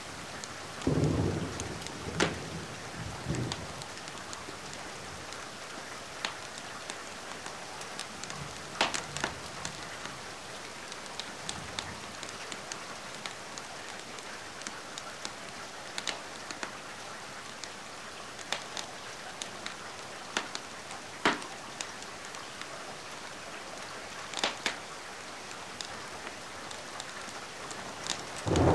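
Steady rain with thunder rumbling low near the start and again right at the end. Occasional sharp pops of a crackling wood fire stand out every few seconds.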